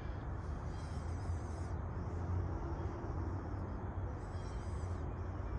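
Outdoor woodland ambience: a steady low rumble with faint, high hissing patches coming and going twice.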